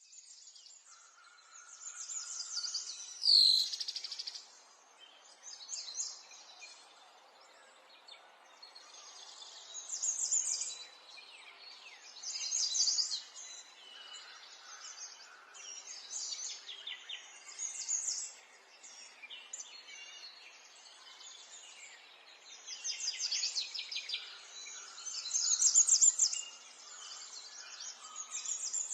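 Small songbirds chirping and trilling in quick, high-pitched phrases, several songs overlapping and coming in every few seconds, with one louder swooping call about three seconds in, over a faint steady background hiss.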